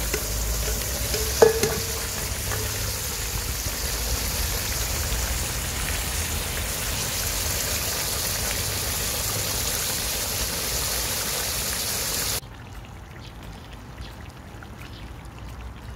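Duck, onion and pineapple juice frying in a kazan, a steady sizzle, with one ringing metal clink about a second and a half in. The sizzle drops suddenly quieter about twelve seconds in.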